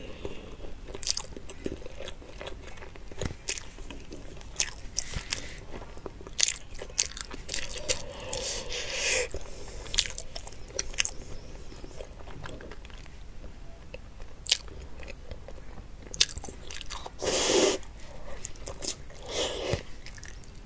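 Close-up eating sounds: biting and chewing soft braised pork belly, with scattered sharp wet mouth clicks. Longer, louder bursts come about eight seconds in and again near the end.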